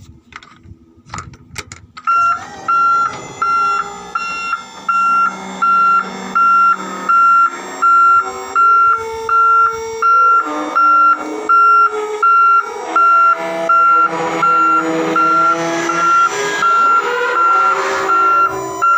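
Reversing alarm on heavy mining equipment, a single high-pitched beep repeating evenly about three times every two seconds, starting about two seconds in. Lower tones that shift in pitch run underneath.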